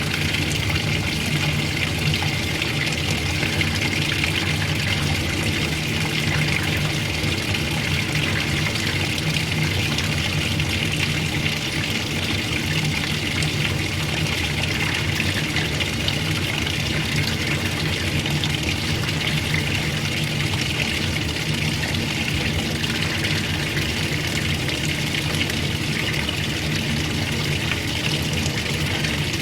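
Old-style washing machine running steadily: a constant motor hum under rushing, sloshing water.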